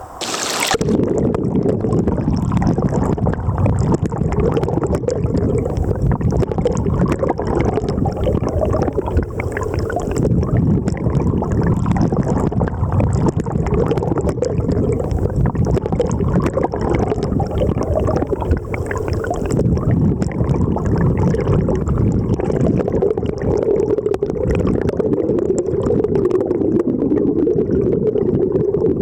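Mountain river flowing over rocks: a loud, steady rush of water with gurgling throughout. It cuts in abruptly with a short burst at the very start.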